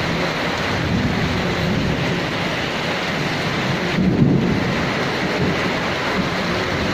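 Heavy rain falling steadily, with low thunder rumbling under it and swelling loudest about four seconds in.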